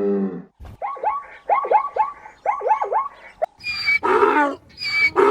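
Animal calls: a quick run of about ten short, pitched yelping calls, then from about three and a half seconds in, louder and harsher calls.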